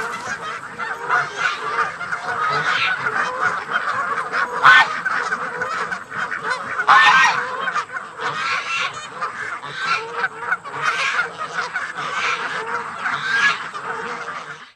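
A large flock of waterfowl calling without pause, many overlapping calls, with louder single calls standing out about five and seven seconds in.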